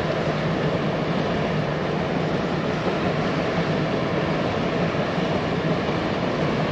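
Steady boat engine drone with a low hum under an even rushing noise, unchanging throughout.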